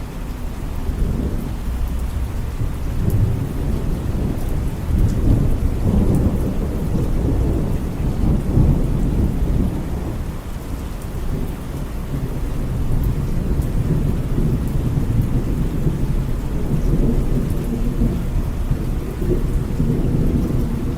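Steady rain with deep thunder rumbling, the rumble swelling and easing several times.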